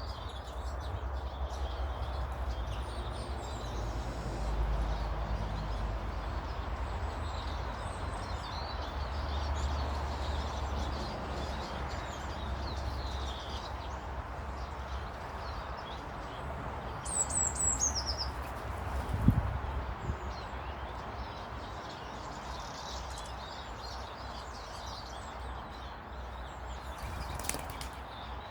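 Small birds chirping and calling now and then over a steady low rumble, with a quick falling run of high notes about two-thirds of the way in and a short thump just after.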